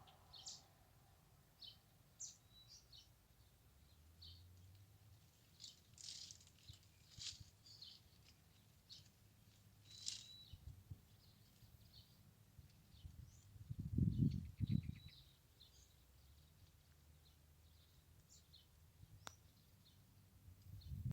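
Small birds chirping in short, scattered high calls, with two or three low thuds about two-thirds of the way through.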